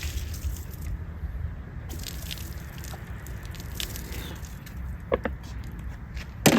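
Liquid dripping and splattering in scattered small clicks over a steady low rumble, with one sharp knock near the end.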